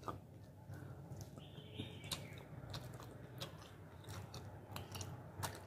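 Faint close-up chewing of fried chicken breast, with many small wet mouth clicks and smacks.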